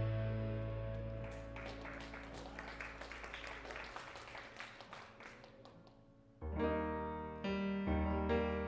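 Instrumental piano music: a held chord fades away under light, quick high notes, then fresh chords with a bass line come in about two-thirds of the way through.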